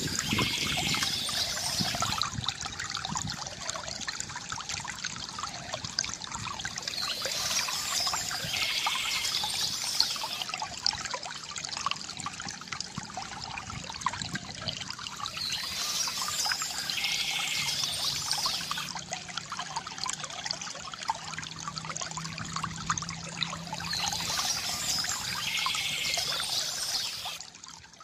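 Water trickling and gurgling from a bamboo fountain, with birds chirping in a short burst that comes back about every eight to nine seconds. The sound drops away just before the end.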